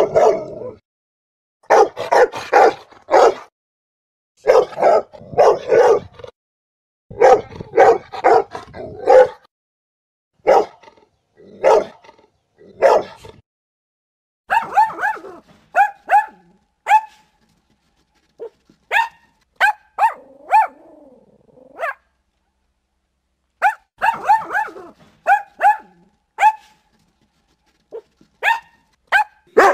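Dogs barking in quick strings of several barks with short gaps between them. Deeper barks come first; from about halfway the barks turn to higher-pitched, sharper yaps.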